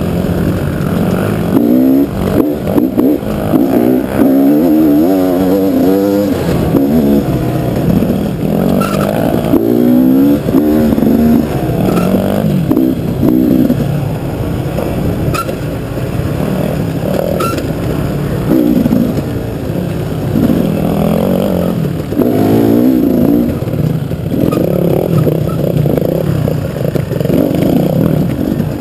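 KTM dual-sport motorcycle engine heard from on the bike, revving up and dropping back over and over as it is ridden along a rough dirt trail, with a few small clicks and knocks from the bike.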